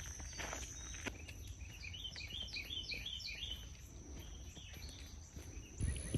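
Outdoor nature ambience. A bird sings a quick run of about a dozen chirps for a second and a half in the middle, over a steady high-pitched insect drone and a low rumble.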